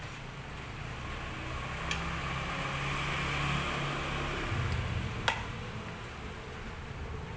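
A motor vehicle passing by, its noise swelling and fading over a few seconds, over a steady hiss of light drizzle. Two sharp clicks sound, one about two seconds in and one about five seconds in.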